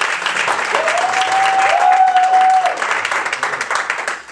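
Audience applause and clapping after a child's recitation, ending abruptly near the end. In the middle, one voice calls out a long, high held cheer over the clapping.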